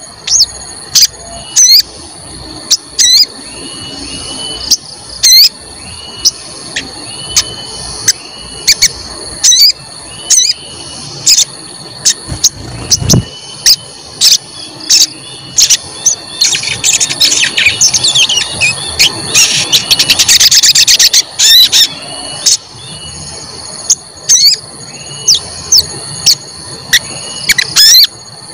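A sogon bird calling its sharp, squeaky "cuit cuit" notes, loud chirps coming about once or twice a second, with a rapid run of calls between about 17 and 21 seconds in. A steady high-pitched tone runs behind the calls.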